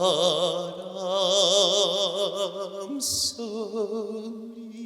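A man singing a trot melody, holding a long note with wide, even vibrato, then a quick breath about three seconds in and a second held note.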